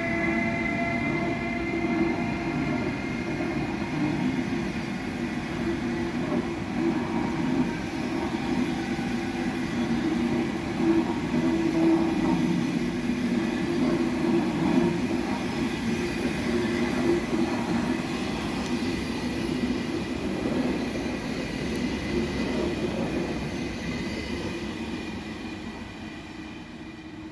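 ÖBB Railjet passenger train rolling past, wheels and bogies rumbling steadily on the rails, with a thin high whine in the first few seconds. The sound fades near the end as the train draws away.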